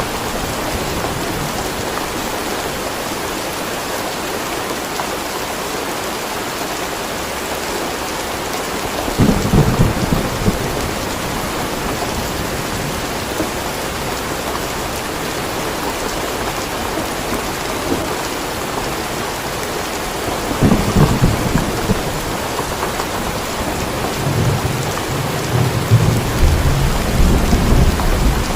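Steady heavy rain falling, with low rolls of thunder: short rumbles about nine and twenty-one seconds in, and a longer rumble building near the end.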